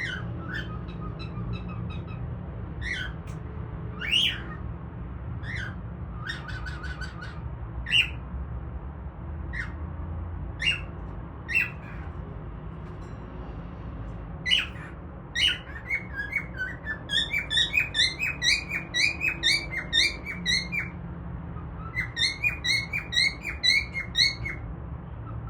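Pet cockatiel calling: single sweeping chirps every second or two, then from about halfway fast runs of chirps at about four a second, with a short pause before the last run. The owner takes the calling as a sign that she is coming out of depression.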